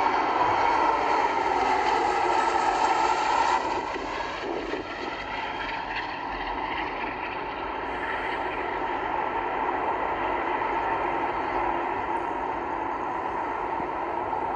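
Jet airliner engines running, a steady rush with a whine in it, loudest for the first few seconds, then dropping in level about four seconds in and holding steady.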